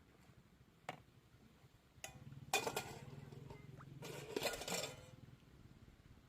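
Dishes and cooking utensils clinking and clattering: a sharp clink about a second in, another just after two seconds, then two short bursts of clatter in the middle.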